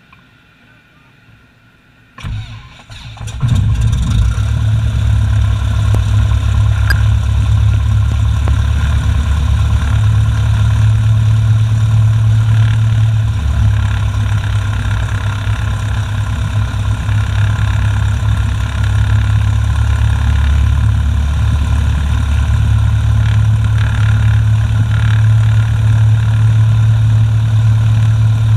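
Cessna Skyhawk's piston engine starting. The starter cranks briefly about two seconds in, the engine catches a second later and settles into a steady idle.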